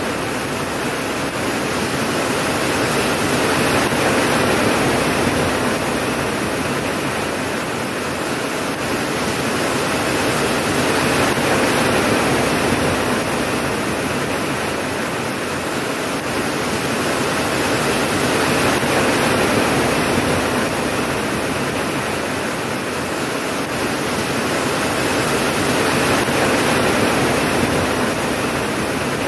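Steady rain falling, an even hiss that swells and eases slowly about every seven seconds.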